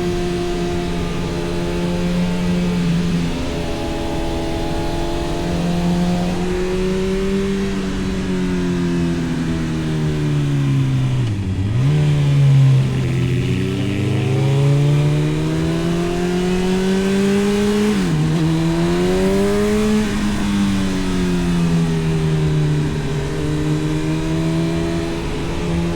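Honda CB1000R's inline-four engine through an Arrow aftermarket exhaust, pulling the bike along with its pitch rising and falling through the revs. Twice, about halfway and again about two-thirds through, the note drops sharply and picks back up, as with gear changes.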